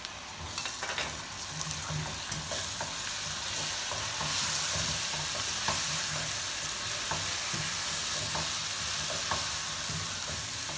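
Ginger-garlic paste, potato chunks and onions sizzling in hot oil in a non-stick pot while a spatula stirs them, scraping and tapping against the pan. The sizzle grows louder about four seconds in.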